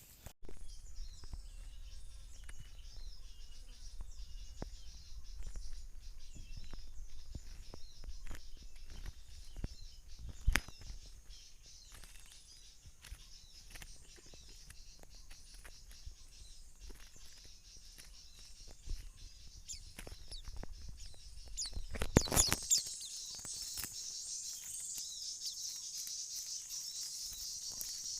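Forest ambience of small birds chirping over a high insect drone, with scattered handling clicks and a low rumble on the microphone. A sharp knock comes about ten seconds in, and a loud cluster of knocks about 22 seconds in. After that the high insect and bird chorus grows louder.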